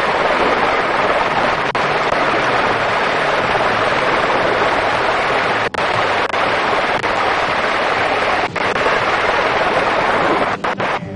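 Helicopter running with its turbine and rotor producing a loud, steady rushing noise, and rotor wash and wind blowing across the microphone. The level dips briefly a few times, more of them near the end.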